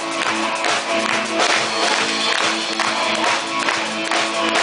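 A live rock band playing, with sustained guitar and bass tones over an even beat of about two to three hits a second.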